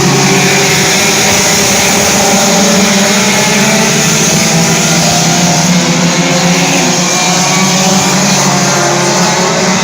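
Race car engines running at speed, a loud steady drone whose pitch wavers slightly without breaking off.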